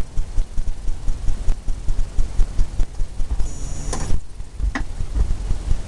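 Rapid, uneven dull thumps from a brush dabbing and scrubbing oil paint onto a canvas on an easel, several strokes a second. A brief brushing hiss comes about three and a half seconds in, and a sharp click near five seconds.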